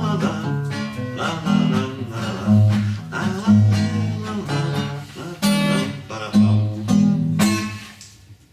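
Acoustic guitar strummed in the closing instrumental bars of a song, with bass notes under the chords. The last chord rings out and fades about eight seconds in.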